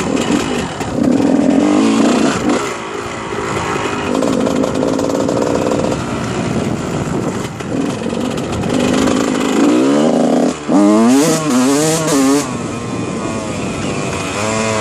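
2001 Honda CR125's two-stroke single-cylinder engine being ridden, its pitch rising and falling through the gears, with a loud stretch of quick revving up and down about ten to twelve seconds in.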